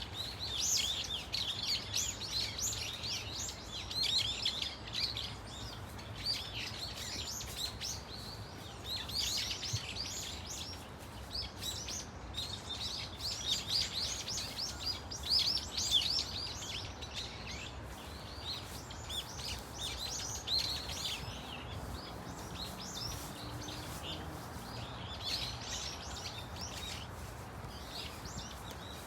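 A flock of brown-eared bulbuls calling: many overlapping high-pitched calls in noisy bursts, with brief lulls between them, over a low steady hum.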